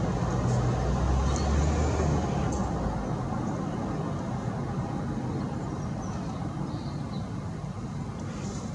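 Steady low rumble of a motor vehicle, strongest in the first three seconds and then fading to a steady background hum, with a few faint high chirps.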